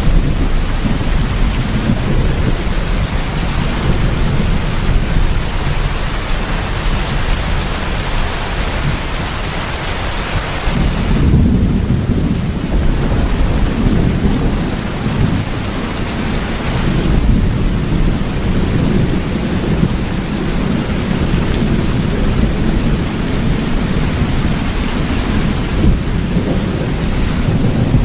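Steady heavy rain with thunder rumbling low underneath. A deeper roll of thunder swells about a third of the way in.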